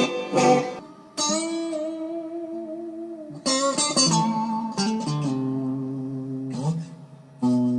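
Telecaster-style electric guitar from a DIY kit, picked one note at a time, each note left to ring, with a few sliding pitch bends between notes and a low note near the end.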